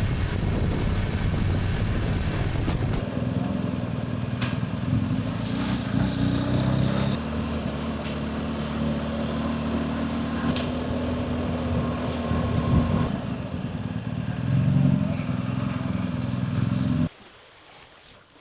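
BMW GS Adventure motorcycle engine running steadily while riding, with a few light clicks on top. It cuts off abruptly near the end.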